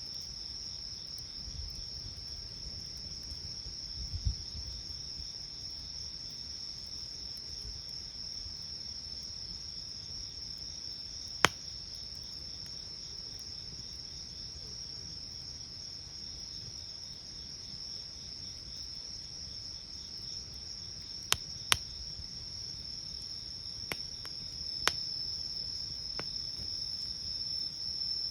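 Night insects, crickets, trilling steadily in a high, continuous chorus that grows louder near the end, with a few sharp pops from a wood campfire.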